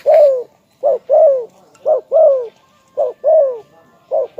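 Spotted dove cooing: a repeated two-part call, a short note followed by a longer falling coo, about once a second.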